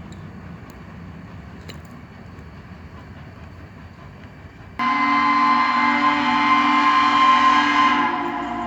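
Low steady rumble, then about five seconds in a loud horn starts suddenly and holds as several steady tones at once, easing a little near the end.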